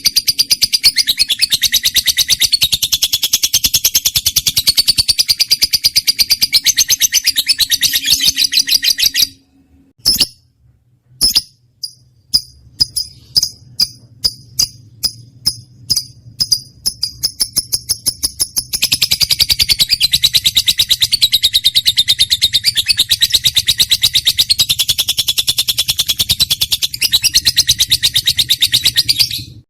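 Lovebird singing a long, very rapid, high chattering trill that breaks off about nine seconds in. After a short pause with a couple of clicks it gives separate sharp chirps, about two a second, then goes back into the continuous chattering trill about nineteen seconds in, stopping just before the end.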